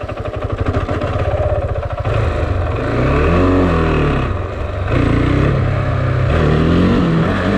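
KTM 690 Duke's big single-cylinder engine pulling hard under acceleration. It chugs at low revs at first, then revs up and drops back through gear changes, with a rise and fall about three and a half seconds in and a short dip a second later.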